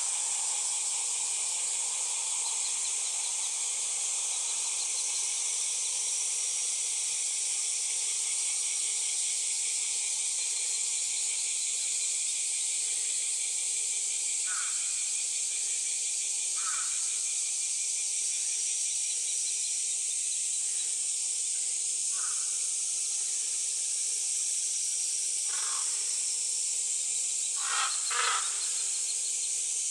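Steady high-pitched hiss of outdoor ambience, with a few faint short sounds scattered through it and two close together near the end.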